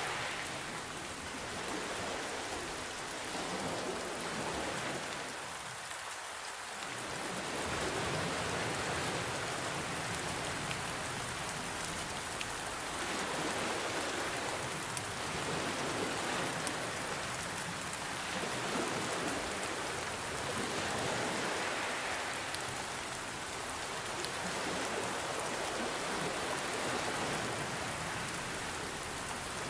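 Steady rain falling, mixed with ocean waves that swell and ease every few seconds.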